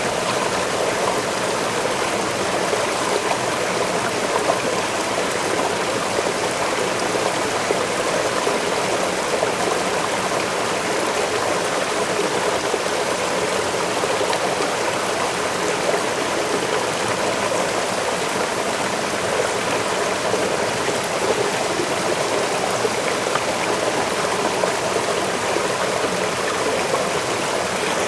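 Forest waterfall: a steady, unbroken rush of falling and running water.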